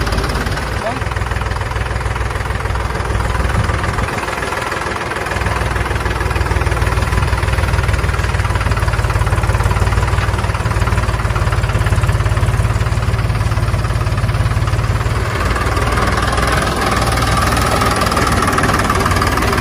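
A tractor engine running steadily with a low rumble.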